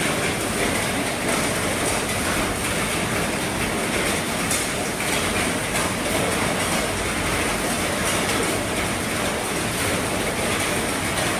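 Heavy rain falling steadily on an RV's roof: a dense, even hiss with faint taps of single drops mixed in.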